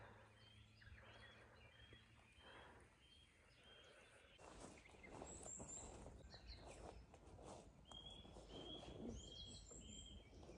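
Faint birdsong: a bird repeats a short high note in a quick series, twice, with a few higher chirps between. A faint scratchy noise rises underneath from about halfway through.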